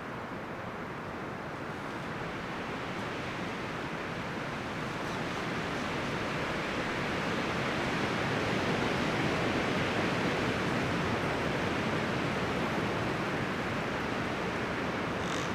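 Wind rustling through the leaves and branches of a forest, a steady rushing that swells into a stronger gust around the middle.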